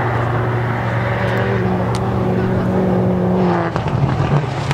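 Rally car engine running hard at high revs with a steady note, then coming off the throttle about three and a half seconds in, where the sound turns choppy and uneven.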